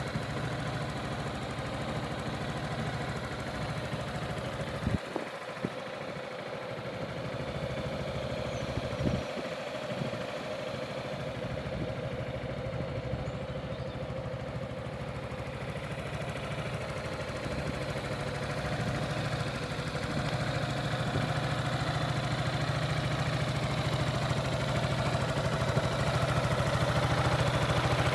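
Yamaha XMAX 300 scooter's single-cylinder four-stroke engine idling steadily, growing gradually louder over the second half, with two brief clicks about five and nine seconds in.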